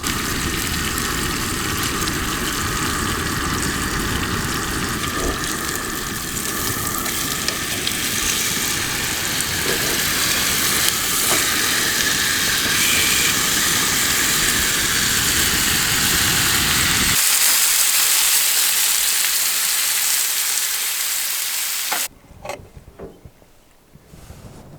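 Ribeye steaks frying in butter in a pan, with a steady, dense sizzle. Near the end the sizzle cuts off abruptly, leaving a few faint clicks.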